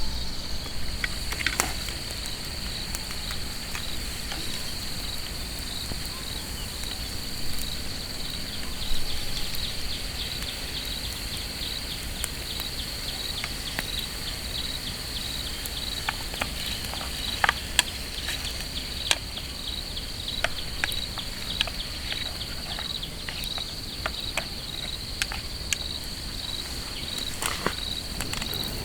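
Insects keep up a steady, high-pitched chirping that pulses at an even rhythm. Irregular sharp ticks of raindrops hitting the tent sound over it.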